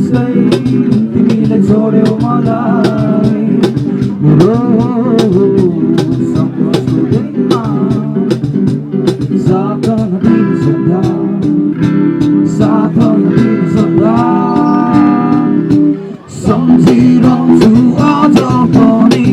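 Band music with guitar and a singing voice over a steady drum beat; the music drops out for a moment near the end.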